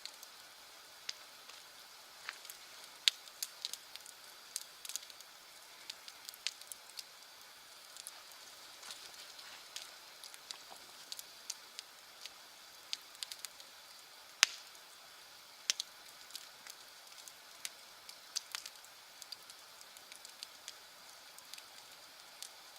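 Bonfire crackling: irregular sharp pops and snaps over a soft steady hiss, with two louder pops, about three seconds in and about midway.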